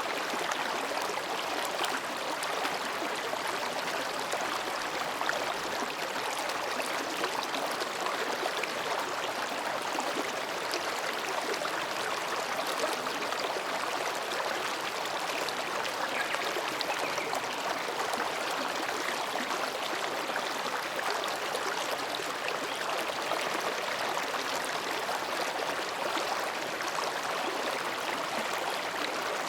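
Mountain stream babbling between rocks: a steady, even rush of running water.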